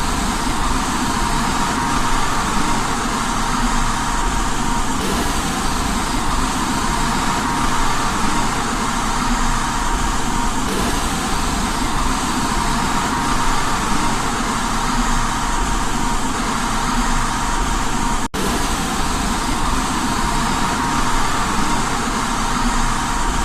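Steady white noise for baby sleep, even and unchanging, with a thin steady tone running through it and a split-second gap about eighteen seconds in.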